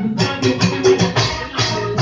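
Live band music with no singing: a quick, steady percussion beat with shakers over bass and guitar.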